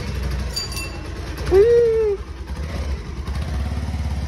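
Motorcycle engine idling with a steady low rumble. About a second and a half in, a short rising-then-falling tone sounds over it for about half a second.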